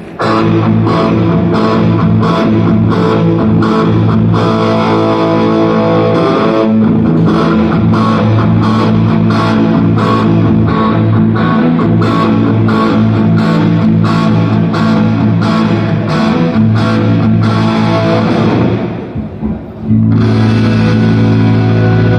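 Distorted electric guitar playing rock chords through an amplifier, over a steady beat of sharp hits about twice a second. The playing thins out briefly near the end, then comes back in full.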